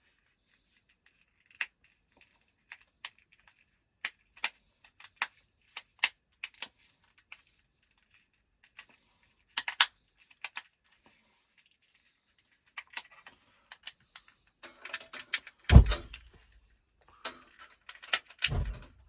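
A small lighter clicked over and over in attempts to light a camp stove, amid small metallic handling sounds; the lighter is acting up and won't catch easily. Two louder thumps come near the end.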